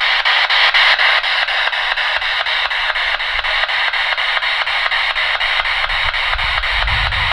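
Spirit box sweeping through radio stations: steady loud static chopped into rapid, evenly spaced pulses as it scans. A low rumble joins in near the end.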